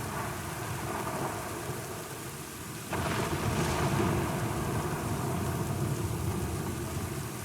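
Steady heavy rain with rolling thunder. A sudden louder roll of thunder breaks in about three seconds in, then slowly dies away.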